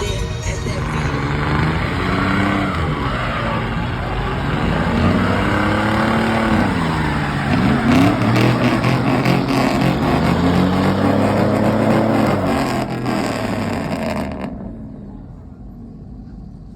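A truck engine revving over and over, its pitch climbing and falling with each rev. The sound falls away and turns muffled near the end.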